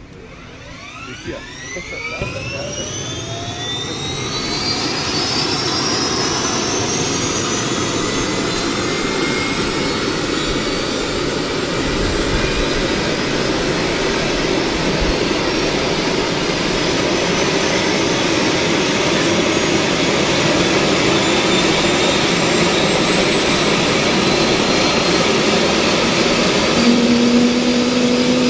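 Helicopter turbine engine starting up: a whine rising in pitch over the first several seconds and growing louder, then settling into a steady loud run. A low hum joins near the end, slowly rising.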